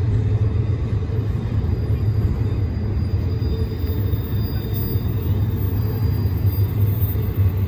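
Double-stack intermodal well cars rolling past on steel rails: a steady, deep rumble of wheels on the track.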